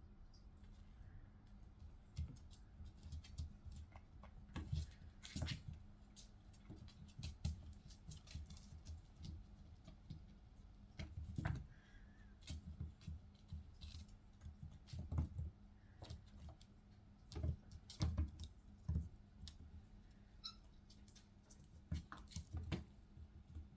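A kitten playing at a curtain: irregular soft taps, scuffs and clicks of its paws and claws on the fabric and floor, a few of them sharper knocks, over a faint steady low hum.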